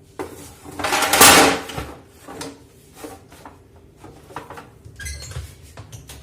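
Plastic fridge trays and racks being handled and set down, with a loud scraping clatter about a second in, then scattered light knocks and clicks.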